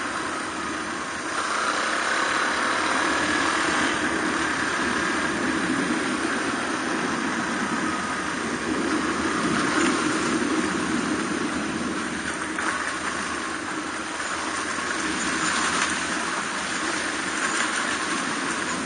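Suzuki DR250R's single-cylinder four-stroke engine running while riding, steady with small shifts in pitch, under a constant rushing noise.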